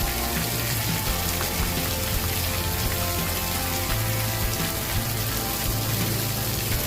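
Campfire crackling and hissing steadily, a dense patter like rain, over a low humming drone that shifts in pitch every second or so.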